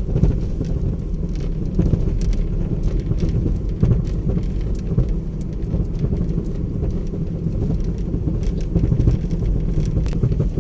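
Steady low rumble of a car driving along a rural road, heard from inside the cabin, with scattered light knocks and rattles.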